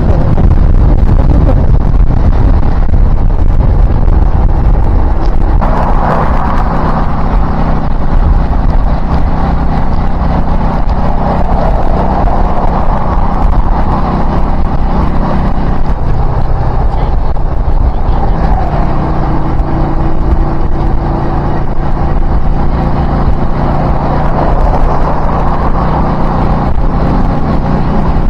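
Car driving, engine and road noise heard steadily, with the engine note changing pitch a couple of times.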